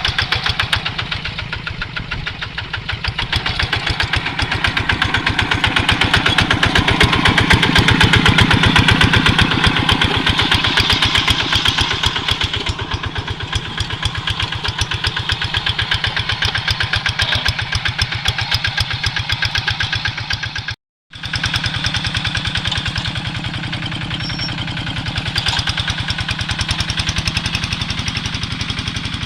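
Quick G3000 two-wheel hand tractor's single-cylinder diesel engine running steadily with a fast, even chug, growing louder for a few seconds early on the way through, as it works plowing dry ground. The sound cuts out for a split second about two-thirds of the way through.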